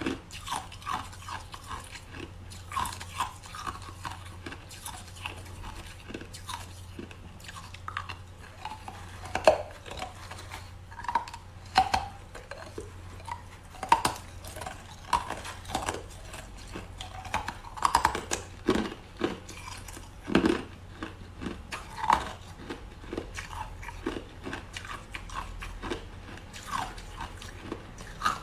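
Close-miked ASMR chewing of something hard and crunchy: sharp, crisp crunches at irregular intervals, with a few louder bites, over quieter chewing.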